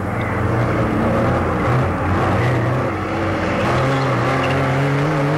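Opel Kadett C's four-cylinder engine working hard as the car is driven through a cone slalom, its pitch rising and dipping as the driver goes on and off the throttle.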